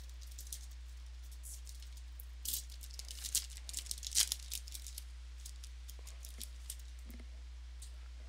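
A foil trading-card pack wrapper being torn open and crinkled, in a cluster of crackling bursts from about two to five seconds in, with scattered lighter clicks before and after.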